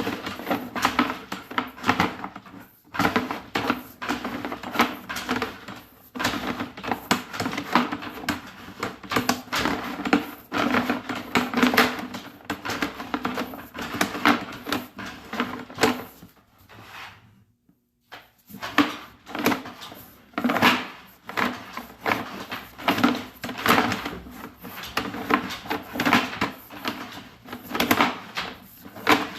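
Sewer inspection camera and its push rod being fed down a plumbing stack, knocking and rattling irregularly against the pipe over a steady low hum, with a short pause a bit past halfway.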